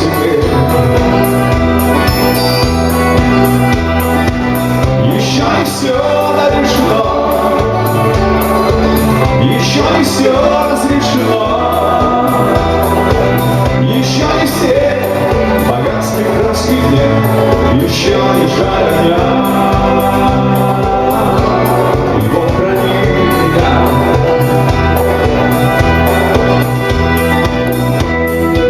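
Live rock band performing a song with a steady beat: a male voice singing over bass and drums.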